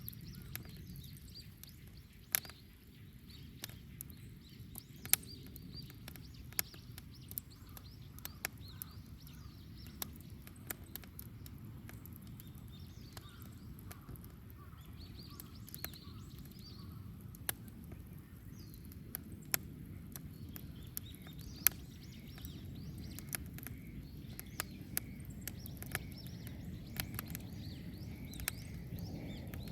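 Wood bonfire crackling, with sharp irregular pops about once a second over a low, steady rush of burning. Birds chirp faintly in the background.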